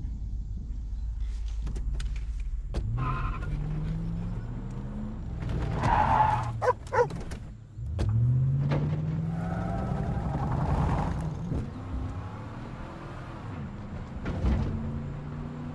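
Car engine running and accelerating, its pitch rising as it revs up about three seconds in and again about eight seconds in, over a steady low road rumble.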